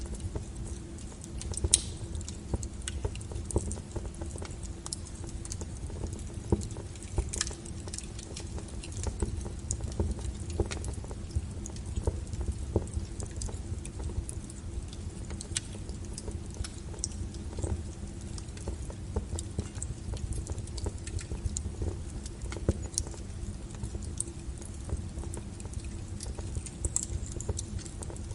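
Wood fire crackling: irregular sharp crackles and pops, some louder than others, over a low steady rumble of the burning fire.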